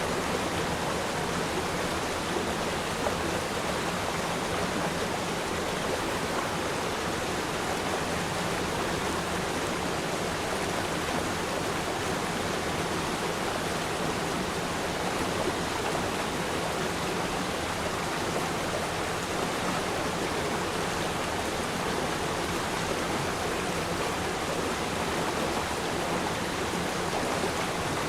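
River stream flowing in a steady, even rush of water.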